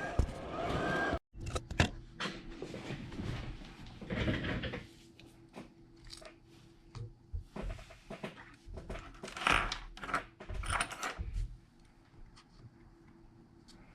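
Scattered small clicks, taps and rustles of tools and phone parts being handled on a workbench, over a faint steady hum.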